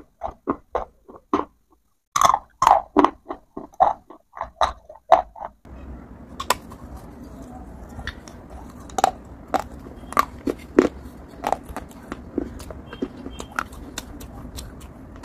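Close-miked crunching and chewing of dry baked clay pipe rolls, crisp strokes about three a second with a short pause partway through. About five and a half seconds in it cuts to a noisier recording: a steady hiss with scattered sharp crunches and mouth clicks.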